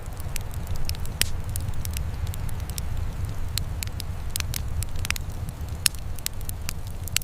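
Wood fire crackling: irregular sharp pops and snaps, several each second, over a steady low rumble.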